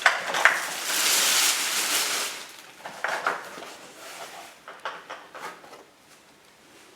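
Packaging handled during an unboxing: a couple of clicks, a rustle of packaging lasting about a second and a half, then scattered light knocks and clicks that grow fainter.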